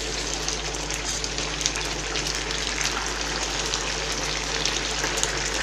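Pieces of wild mallard duck frying in fat in a pan, a steady dense sizzle with fine crackling.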